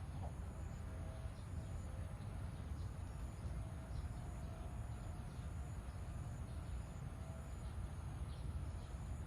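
Outdoor ambience: a steady low rumble with a thin, steady high-pitched hum above it and a few faint ticks.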